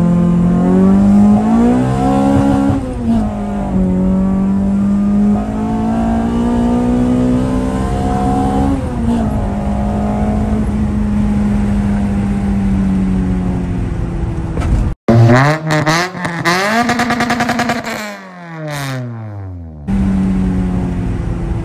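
A 2007 Toyota Corolla's engine, heard from inside the cabin, pulling hard under full acceleration. The revs climb, then drop at gear changes about two and a half seconds in and again about nine seconds in. About fifteen seconds in the engine sound cuts off abruptly and gives way to a different sound of sweeping rising and falling tones.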